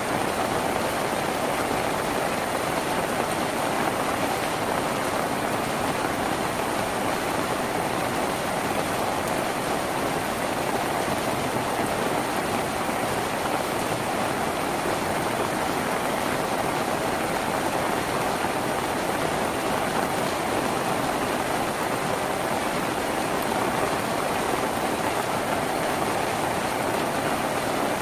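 Rain falling steadily on a tin roof, an even hiss of drops with no breaks or changes.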